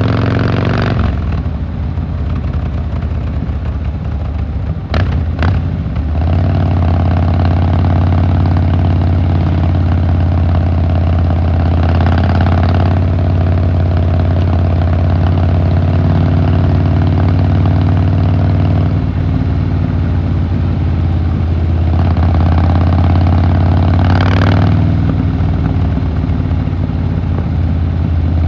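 Harley-Davidson Fat Boy Lo's V-twin engine running steadily while riding. It is quieter for the first few seconds, with a couple of sharp clicks about five seconds in. A rush of noise swells twice, about twelve seconds in and again near the end.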